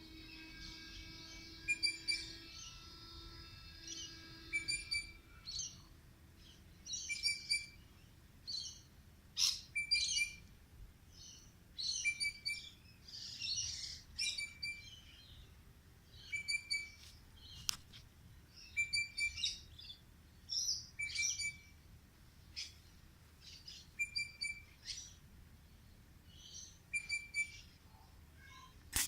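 A bird singing short, high, chirpy phrases, repeated every second or two with short pauses between them. A steady low hum runs underneath for the first few seconds and then stops.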